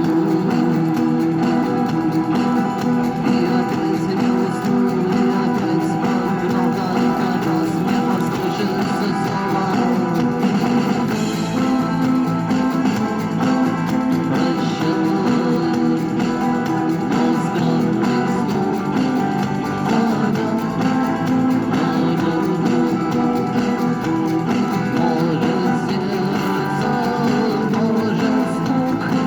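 Guitar strummed and plucked, playing a song cover as steady instrumental music.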